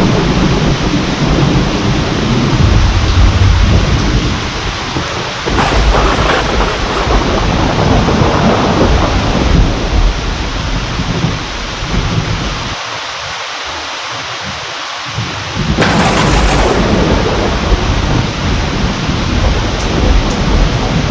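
Heavy rain falling steadily with rolling thunder. The rumbling eases about two-thirds of the way through, then a sharp thunderclap breaks in and the rumbling comes back.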